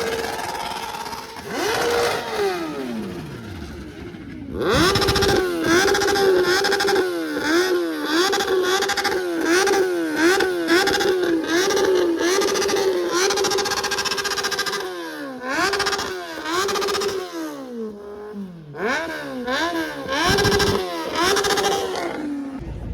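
Superbike engine being revved over and over, its pitch rising and falling about twice a second in quick throttle blips, with deeper swings near the end. Before that, about two seconds in, an engine's pitch falls away.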